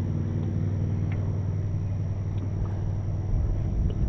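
Boat motor running steadily with a low hum, swelling briefly near the end.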